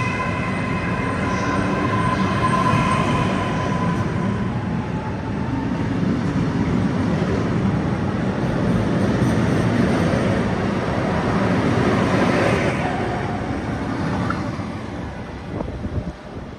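Regional passenger train running into the station: a steady rumble of wheels on rail, with a high whine over it in the first few seconds, fading away near the end.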